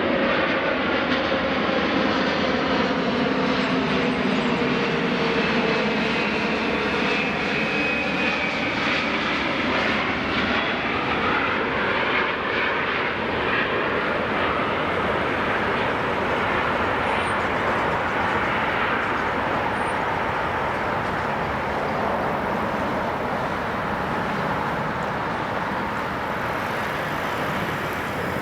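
Jet airliner passing close by: a loud, steady engine roar with faint whistling tones that slide in pitch as it goes past, slowly fading toward the end.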